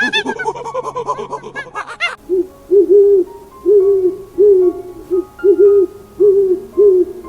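An animal call: rapid, arching higher-pitched calls for the first two seconds, then a series of about ten short, low hoots in an uneven rhythm, some paired.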